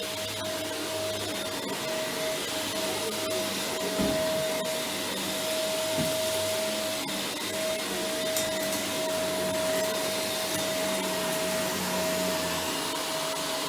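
Vacuum cleaner running steadily while being pushed over the floor, its motor whine holding one pitch, with a brief knock about four seconds in and another about six seconds in.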